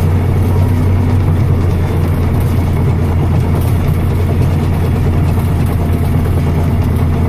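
Heavy farm machinery engine running steadily, a constant low drone with no change in speed.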